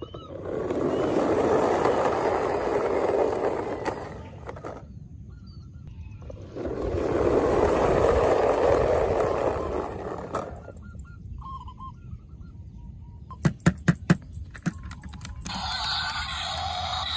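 Toy diecast cars rolling across a hard surface: two long passes of rolling noise, then a few sharp clicks. Music starts near the end.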